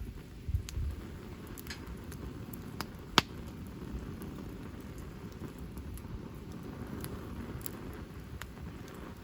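Wood campfire burning, with scattered crackles over a steady low rumble and one sharp pop about three seconds in.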